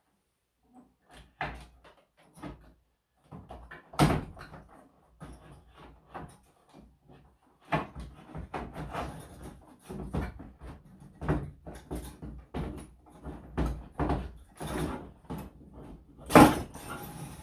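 Irregular knocks and clicks of hard parts being handled, likely the wall-mounted air conditioner's parts or tools during the cleaning. There is a sharp knock about four seconds in and the loudest knock near the end.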